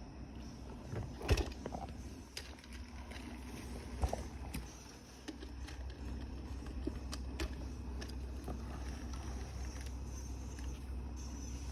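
Scattered light clicks and knocks, the loudest about a second in and another about four seconds in, then a steady low hum from about halfway.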